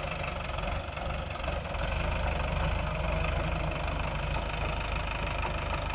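Sonalika tractor's diesel engine running steadily while it ploughs a field, growing a little louder about two seconds in.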